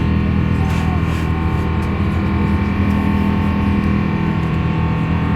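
Steady drone of the Airbus A350-900's Rolls-Royce Trent XWB turbofan engines during the climb, a constant hum of several steady tones.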